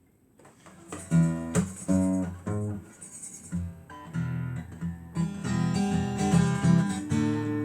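Acoustic guitar strummed in chords, starting about a second in after a brief quiet.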